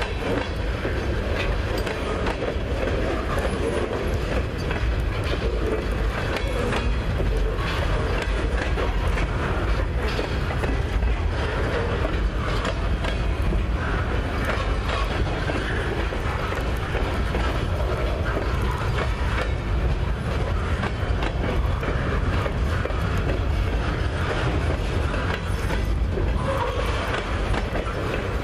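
Freight train's flatcars loaded with steel pipe rolling past at steady speed: a continuous rumble of steel wheels on the rails, with clickety-clack as the wheels cross rail joints.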